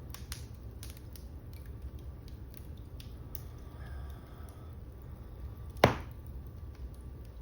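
Wood fire burning in a fireplace: a steady low rumble with scattered crackles, and one loud pop near the end.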